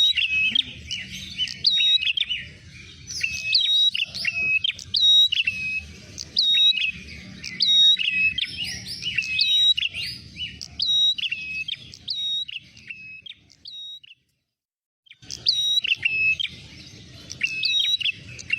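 Prenjak merah song used as a lure: rapid, sharp chirps that hook downward, alternating between a higher and a lower note, several a second. The song cuts off to silence for about a second past the middle, then resumes. A low rumble runs underneath the song.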